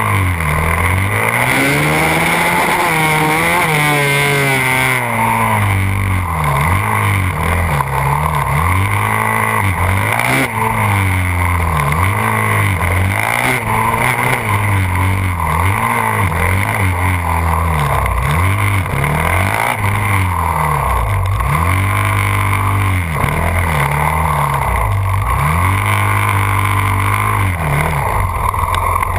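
Yamaha WR450F's single-cylinder four-stroke engine heard from on board, revving up and falling back over and over, about once a second, as the throttle is opened and shut through tight turns, with a few longer pulls up through the revs.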